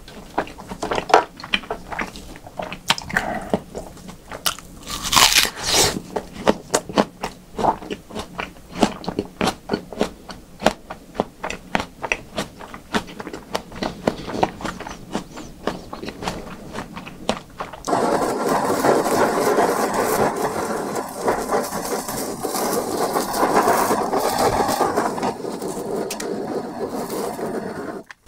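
Close-miked mouth sounds of chewing raw beef: rapid wet clicks and smacks, several a second, with a few louder ones. About eighteen seconds in it changes suddenly to a steady, dense noise that cuts off just before the end.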